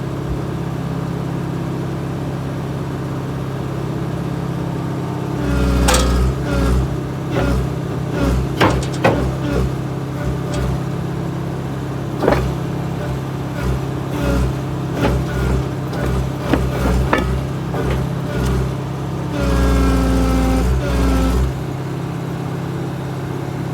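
Excavator diesel engine running steadily. From about five seconds in, the hydraulics push under load in repeated surges, with a string of metallic clanks and knocks from the steel track and undercarriage as a thrown track is worked back onto the machine. A longer, heavier surge comes near the end.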